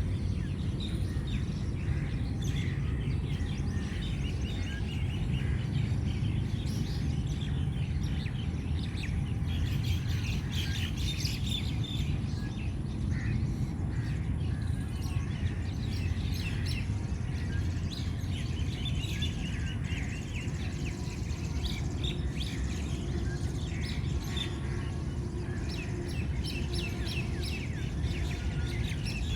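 Many small birds chirping and calling in short, overlapping notes, over a steady low rumble of background noise.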